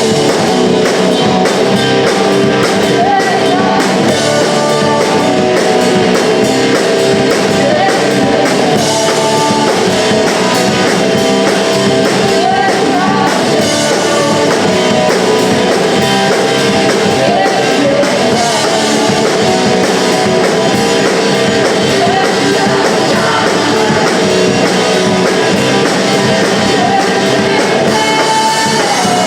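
Punk rock band playing live, loud and without a break: electric guitars and drums with a sung vocal line over them.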